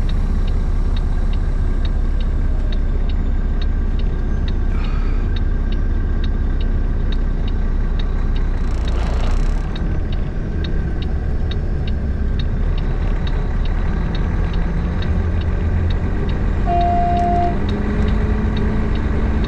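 Diesel truck engine running steadily, heard from inside the cab while driving. A regular ticking goes on about two to three times a second. There is a brief hiss about nine seconds in and a short beep near the end.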